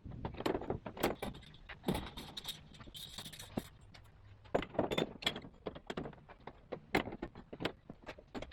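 Irregular metallic clinks, rattles and knocks from parts being handled on a portable sawmill during a band-blade change, with a short hiss about three seconds in.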